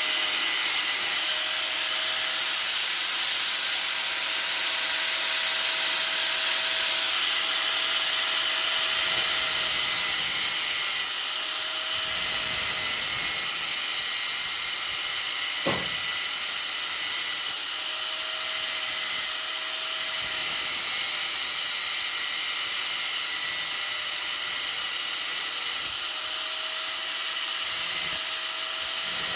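A grinder working the edge of a sheet-steel repair panel, trimming a small amount off. It is a steady hiss of the wheel on the metal over a faint motor whine, easing and coming back several times as the wheel is lifted and set back on, with one sharp knock about halfway.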